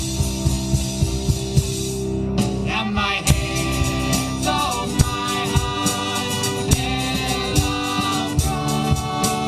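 Live folk-rock band playing a song: a drum kit keeps a steady beat under sustained guitar and bass chords, with a voice singing over them.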